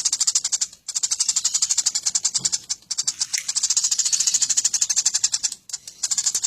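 Eurasian tree sparrows chirping in a fast, rattling stream of high chirps, many a second, broken by short pauses about a second in and near the end.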